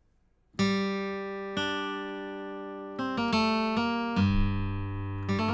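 Sampled steel guitar patch from the Bismark bs-16i app, played on a keyboard. After about half a second of silence, it plays a slow run of about seven sustained notes and chords, each one left to ring on.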